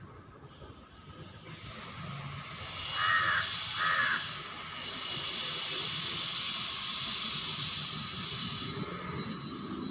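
Two short, harsh bird calls about a second apart, around three seconds in, over a steady high-pitched hiss that swells in early and fades near the end.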